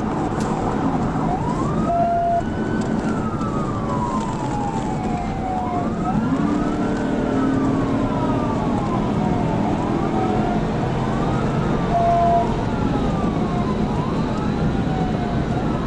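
Police cruiser siren wailing, rising and falling slowly over and over, over steady road and engine noise from a high-speed pursuit. A short steady beep sounds twice, once early and once about three quarters of the way through.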